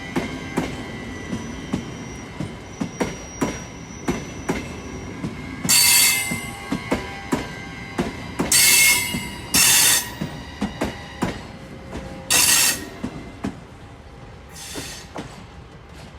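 Lastochka electric multiple unit passing, its wheels clacking irregularly over rail joints and points, about two to three clicks a second. Several loud bursts of high squealing hiss from the wheels come over it. The clacking thins out near the end.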